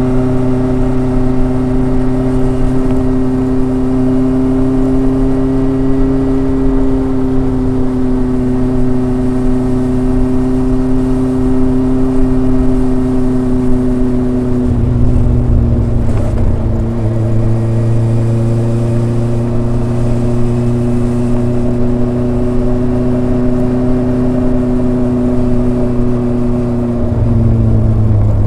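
Kawasaki ZRX inline-four motorcycle engine and exhaust under way at a steady, gentle cruise, the pitch creeping up slowly. The engine note drops suddenly twice, about halfway through and near the end.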